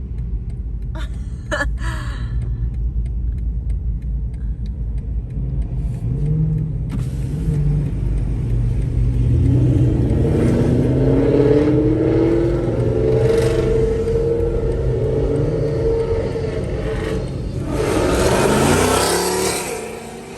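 Car engine running with road noise, speeding up with its pitch rising several times over. A louder rushing swell comes near the end, then the sound drops away.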